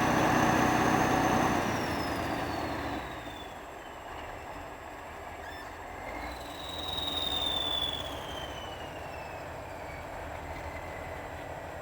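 Kirovets tractor's diesel engine running loud, then falling away after about two seconds, with a high whine that slides down in pitch. A second, smaller swell with another falling whine comes past the middle.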